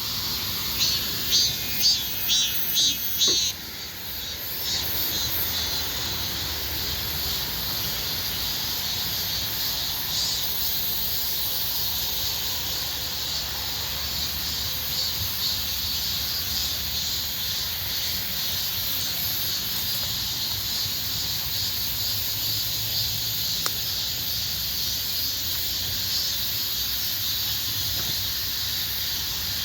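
Chorus of insects, crickets and cicadas, making a steady high-pitched drone. In the first few seconds a nearer insect adds a rapid series of loud pulsed calls, then stops.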